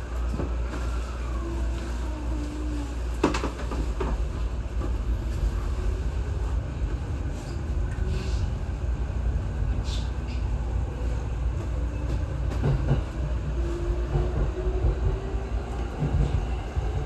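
Tokyo Waterfront Railway 70-000 series electric train running along the line: a steady low rumble of wheels on rail with a few sharp clicks, and a motor whine that rises in pitch as the train gathers speed.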